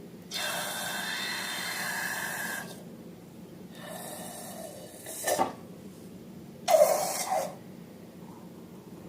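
Air hissing out of a rubber balloon for a little over two seconds, then a short sharp crackle about halfway through and a louder rush of air near the end.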